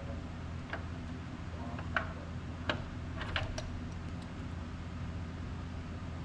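A few light clicks and taps of tools against metal during engine work, over a steady low hum.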